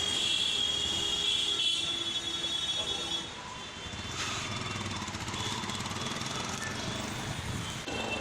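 Busy street traffic noise, with a high, steady whine for the first three seconds before it drops to the general traffic hum.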